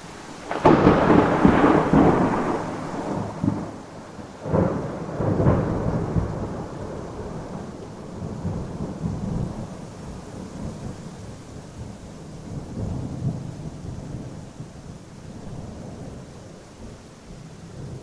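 Thunder: a sudden clap about a second in, two more cracks a few seconds later, then a long rumble that rolls on and slowly fades, swelling again now and then. Steady rain hisses underneath.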